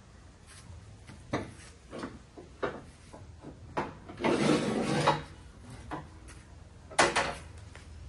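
Handling noises: a series of knocks and clicks, a scraping rub lasting about a second midway, and a sharp knock near the end.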